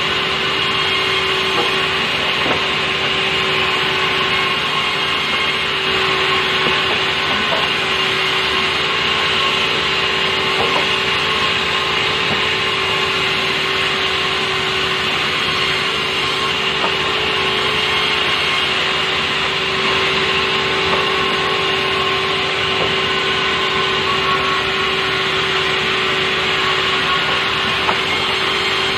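Sawmill saw cutting softwood timber, running steadily with a constant whine over the noise of the cut.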